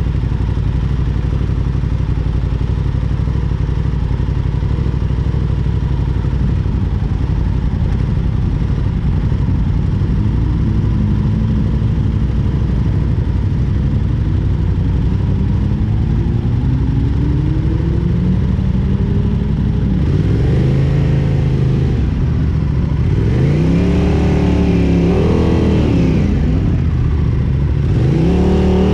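Motorcycle engines idling, the camera bike's own Aprilia sport-bike engine steady and close. From about ten seconds in, engine notes start climbing slowly, and from about twenty seconds in come a few quick revs that rise and fall, loudest near the end as the bikes pull away.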